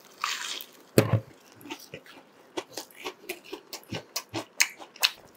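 Close-up bite and chewing of a crispy deep-fried breaded chicken cutlet: a sharp crunch about a second in, then irregular crisp crunches of chewing, two or three a second.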